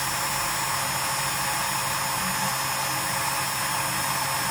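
Steady, even whooshing noise like a running fan or blower, with a constant low hum under it.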